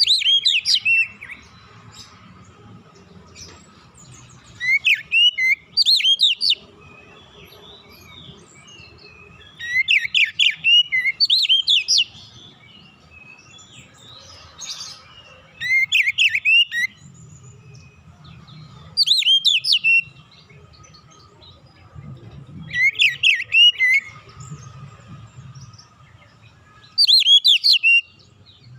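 Oriental magpie-robin (kacer) singing: seven short phrases of quick, sliding whistled notes, each a second or two long, coming every four to five seconds, with a faint steady hum beneath.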